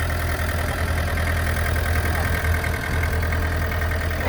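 Excavator engine running steadily at idle, a constant low hum with an even pulsing throb.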